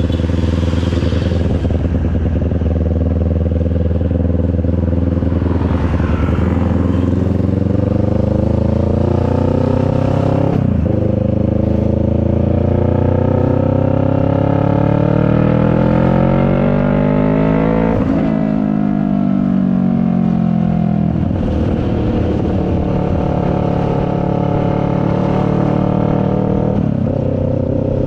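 CFMoto 400NK's parallel-twin engine running under the rider, holding a steady speed, then accelerating with a rising pitch. There are brief breaks for gear changes about a third of the way in and again about two thirds in, after which the engine note drops and settles.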